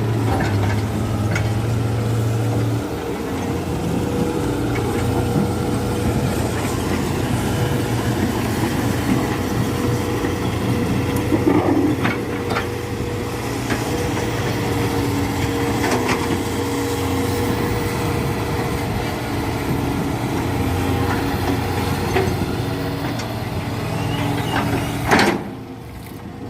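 Dump truck engine running steadily, with scattered knocks and clatters over it; a loud knock near the end, after which the sound briefly drops away.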